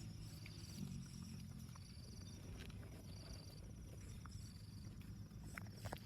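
Insects, crickets by their sound, chirping in short high trains that repeat every second or so, over a faint low steady hum. A few sharp clicks come near the end.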